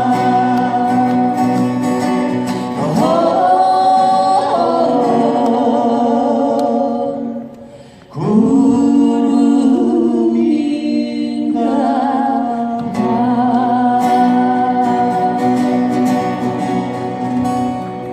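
A singer holds long notes with vibrato over acoustic guitar, in three drawn-out phrases with a brief break about eight seconds in, closing out a folk song.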